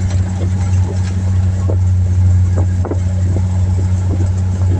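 Motor vehicle driving, a steady low engine and road drone with a few light knocks and rattles from bumps.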